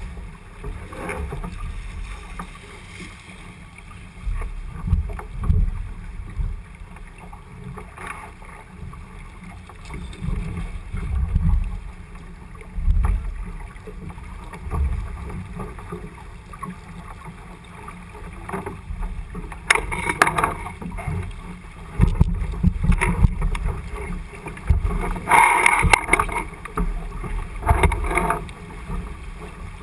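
Wind buffeting the microphone and water rushing along the hull of a J80 sailboat under sail, a gusting low rumble with a few louder bursts about two-thirds of the way through and again near the end.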